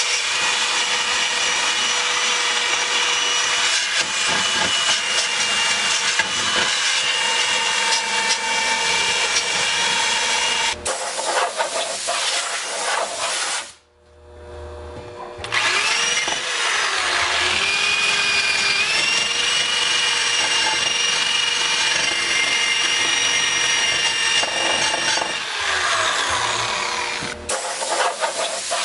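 Electric power tool working aluminum engine parts: it runs with a steady whine over a grinding hiss. It cuts out about fourteen seconds in, starts again a second and a half later, and its pitch dips and recovers as the part is pressed against it.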